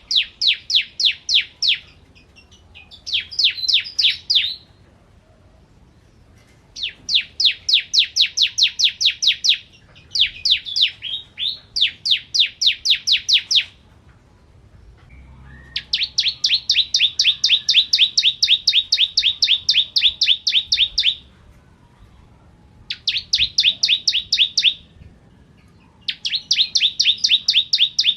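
Ciblek kristal (bar-winged prinia) singing: fast trills of sharp, evenly spaced chirps, about eight to ten a second, each trill lasting two to five seconds with short pauses between. The longest trill comes a little past halfway through.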